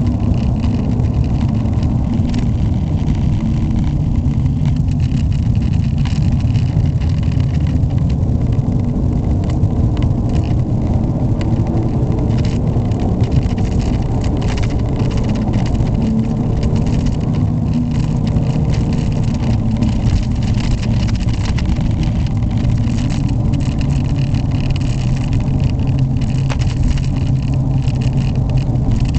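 Ford Mondeo Estate's 1.6-litre four-cylinder petrol engine running steadily under way, with road and tyre noise beneath it. The owner calls the engine very noisy.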